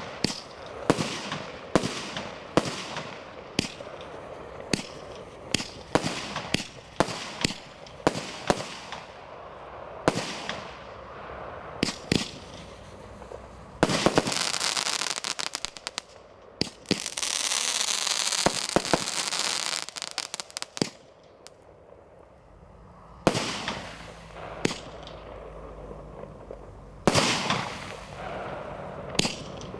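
Brothers Pyrotechnics 'Jaberwocky' firework cake firing its shots one after another, each a sharp bang, roughly one a second. About halfway through, a dense run of rapid crackling lasts several seconds, followed by a few more single shots.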